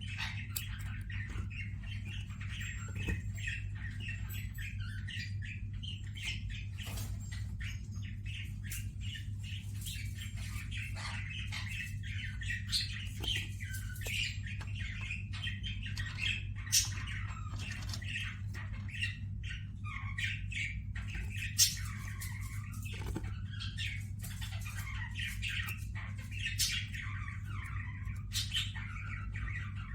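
Budgerigars and Gouldian finches chattering together: a continuous mix of warbling, chirps and squawks, with two sharp louder sounds about halfway through. A steady low hum runs underneath.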